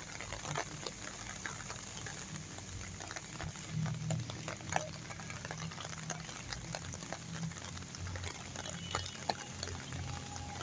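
Steady rain falling, many small drop ticks over an even hiss, with a low rumble underneath.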